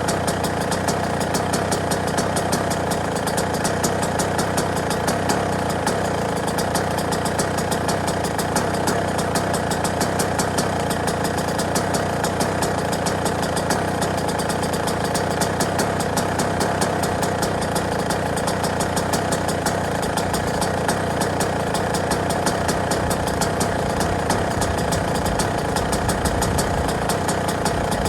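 Yamaha YZ125 two-stroke single-cylinder dirt bike engine idling steadily, with fast, even firing pulses and no change in speed.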